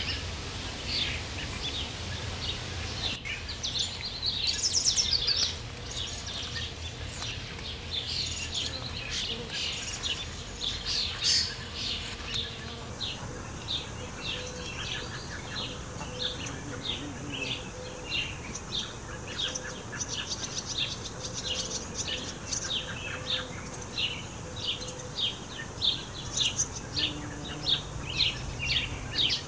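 Songbirds chirping and calling in a garden. From about halfway in, one bird repeats a short, high chirp steadily, about two a second.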